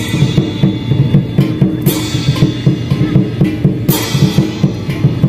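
Percussion music: a steady fast drum beat of about four to five strokes a second, with a cymbal crash at the start, another about two seconds in and a third about four seconds in.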